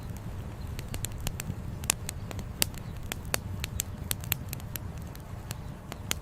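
Wood campfire crackling, with irregular sharp pops and snaps of burning firewood several times a second over a steady low rumble.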